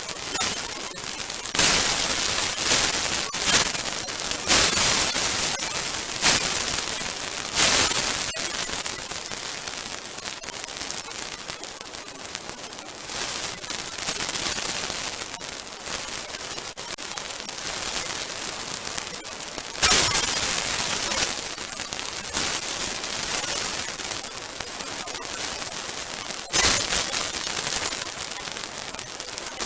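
Bonfire of damp and green garden rubbish burning: steady hissing with dense crackling and popping, with several louder surges.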